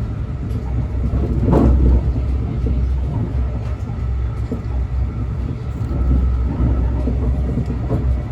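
A train running with a steady low rumble and a faint steady whine, with one short knock about a second and a half in.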